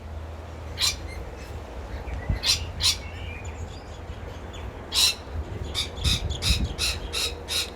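Australian parrots giving short, sharp calls: single calls at intervals through the first five seconds, then a quick run of about six calls around six seconds in. The birds are upset, calling at the person near their feeding tree.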